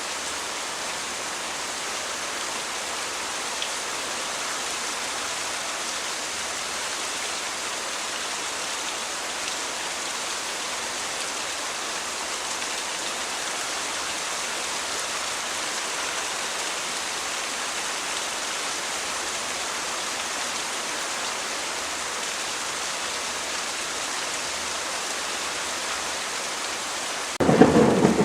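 Steady rain, an even hiss without distinct drops or rhythm. Just before the end, it switches abruptly to much louder, deeper thunder with heavy rain.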